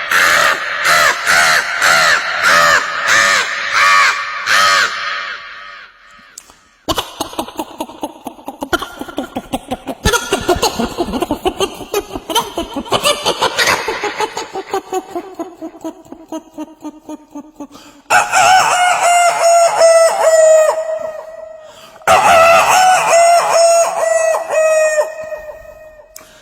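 A man imitating bird calls with his voice: first a run of crow-like caws, about two a second, then a long string of rapid hen-like clucks, then two long rooster crows.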